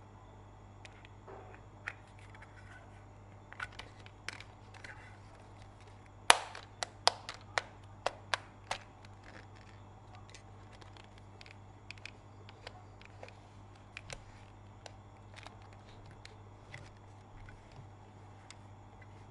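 Plastic toy pieces and packaging being handled during an unboxing: scattered sharp clicks and taps, with a run of louder clicks about six to nine seconds in, over a faint steady hum.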